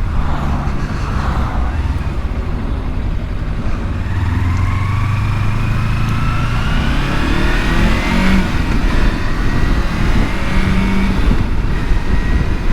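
Kawasaki Versys-X 300's parallel-twin engine running under way, with steady wind and road noise. The engine note climbs in pitch as the bike accelerates from about four seconds in, then drops back after about eight seconds.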